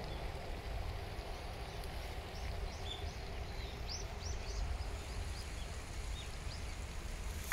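A small bird chirping in a quick run of short high notes from about two to six seconds in, over a steady low rumble.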